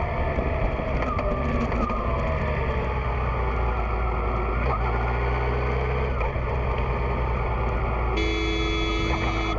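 Car engine and road noise heard from a moving vehicle, a steady low rumble whose engine pitch slowly falls as the car eases off. Near the end a steady tone comes in over it.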